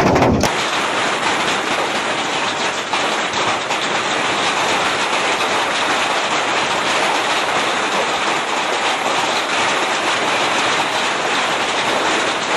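Hailstones falling heavily, a dense, steady clatter of countless small impacts. A louder, rougher stretch cuts off abruptly about half a second in.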